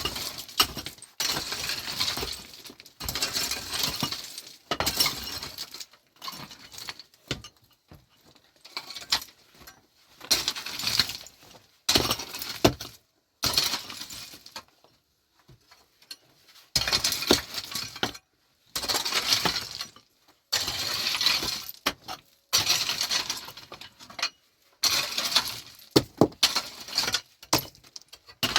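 Repeated bursts of clattering and clinking, hard objects knocking and scraping together, each burst about a second long with short pauses between.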